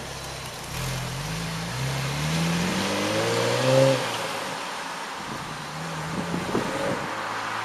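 2013 Camaro's 3.6-litre V6 revving through a GM performance axle-back exhaust, with a deeper tone. The revs climb to a peak about four seconds in and fall back to idle, then there is a short blip near the end.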